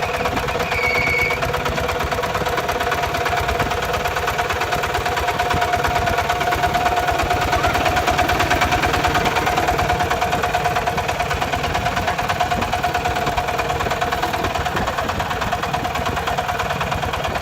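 Kubota RT140's single-cylinder diesel engine running steadily, with rapid, even knocking pulses and a steady whine above them.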